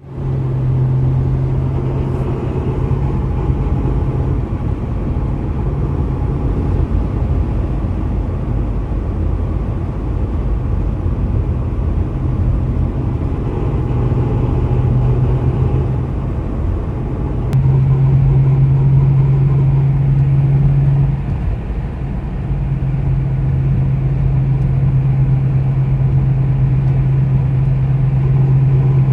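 2005 Ford Mustang driving, with steady low road rumble and a low hum that fades and comes back several times, louder in stretches. This is the unidentified drive noise.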